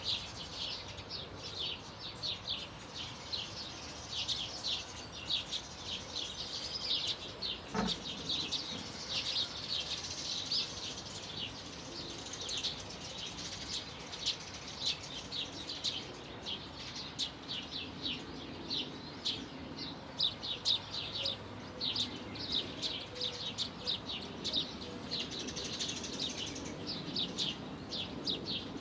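Birdsong: several small birds chirping and singing in a busy, continuous chorus of short high chirps. A single short knock sounds about eight seconds in.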